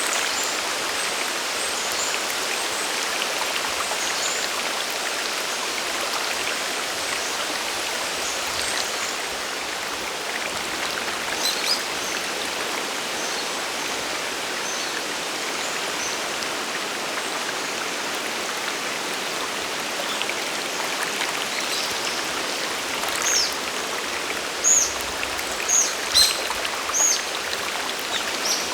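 Sagiri Falls' water pouring and splashing in a steady, even rush. A bird calls with short high chirps, once about a third of the way in and several times in quick succession near the end.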